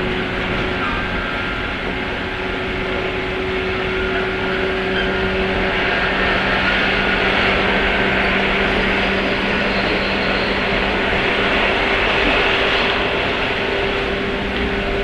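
The running sound inside the motor car of a 103 series electric train: its MT55 traction motors hum with a steady tone over the noise of wheels on rail, at a steady speed.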